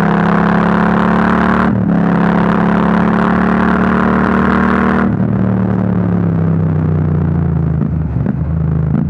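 Royal Enfield 650 parallel-twin engine through a Rhino Racing V4 Grenade slip-on exhaust, held at steady high revs with a brief dip about two seconds in. About five seconds in the throttle closes and the revs wind down slowly, with a few sharp cracks near the end.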